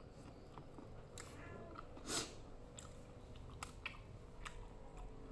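A person chewing rujak close to the microphone: soft mouth clicks and small crunches, with one louder burst about two seconds in.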